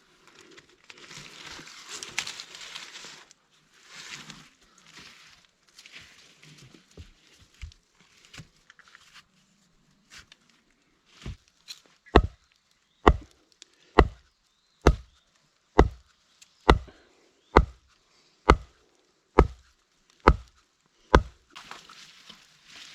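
Rustling through leaves and brush, then a steady run of about ten sharp chopping blows into wood, roughly one a second.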